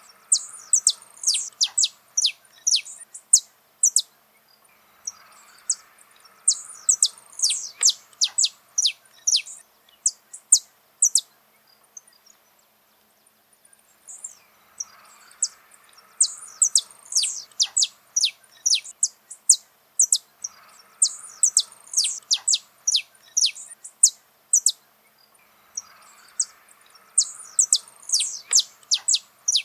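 Saffron finch (canário-da-terra) singing: bouts of many sharp, fast, downward-sweeping high notes, broken by short pauses a few times, over faint steady background noise.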